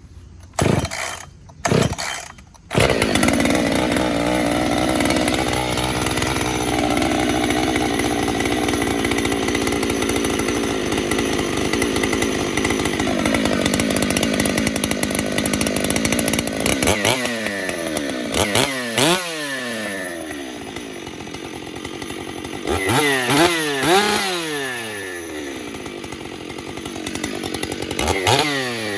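Two-stroke 90cc gas chainsaw pull-started without a decompression valve: a few pulls of the starter cord, then it catches about three seconds in and runs fast and steady. Around thirteen seconds it drops to a lower speed, and from then on the throttle is blipped several times, the engine revving up and falling back.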